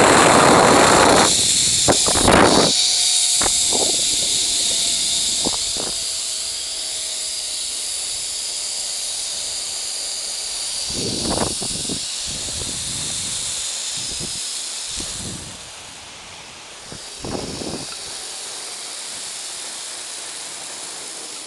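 Zipline trolley pulleys running along the steel cable: a steady high hiss with a faint whine that slowly falls in pitch, the whole sound fading as the ride slows. Wind buffets the microphone heavily in the first couple of seconds and briefly again twice later.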